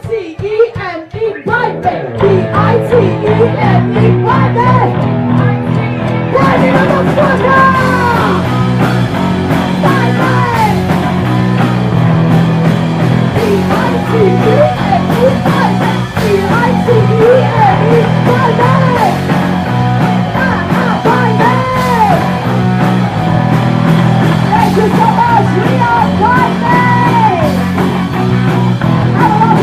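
A live rock band playing a loud instrumental passage with distorted guitar, bass and drums. The first few seconds are sparser, then the full band with crashing cymbals comes in about six seconds in, carrying bending lead lines.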